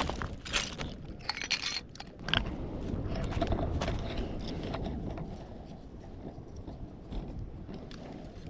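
A few crunching footsteps on shell-strewn sand in the first two seconds or so, then wind rumbling on the microphone.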